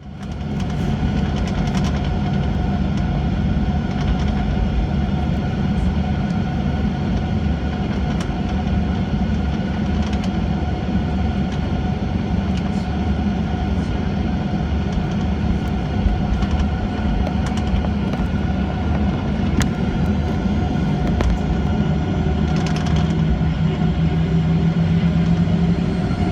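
Cabin noise of a Boeing 737-800 on the ground, its CFM56 engines running at low power: a steady rumble under a constant whine, with a few faint ticks.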